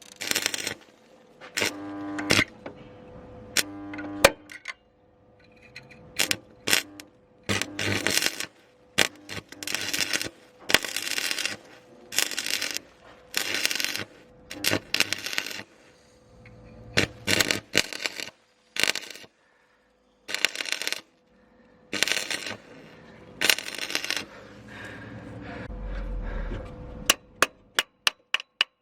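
Metalworking noise: a long series of short, irregular bursts of scraping and clinking metal, with a brief buzzing tone twice near the start.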